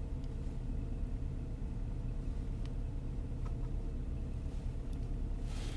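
Saab B235R 2.3-litre turbocharged four-cylinder idling steadily during a cold start, heard from inside the car's cabin. A few faint clicks, and a short rush of noise near the end.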